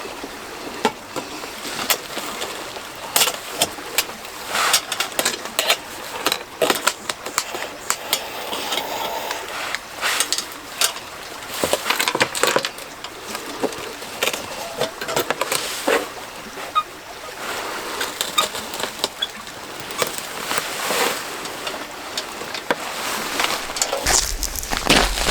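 Irregular rustling, flapping and clicking of a camping tent and gear in strong gusty wind. Wind buffets the microphone with a low rumble near the end.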